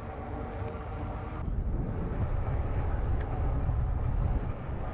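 Wind buffeting the microphone while riding an e-bike, a low rumble that grows stronger after about a second and a half. A faint steady hum sits under it at the start.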